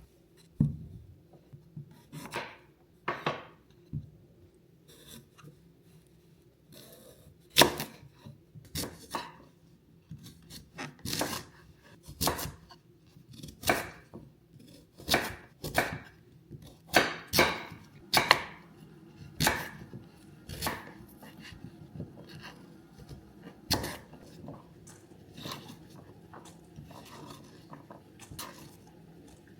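Kitchen knife chopping food on a cutting board: irregular sharp knocks about one or two a second, thickest in the middle and thinning out toward the end.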